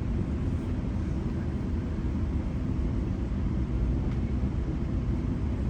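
Steady low rumble of a moving GO Transit commuter train heard from inside the passenger coach: wheels running on the track and the train's running noise, even and unbroken.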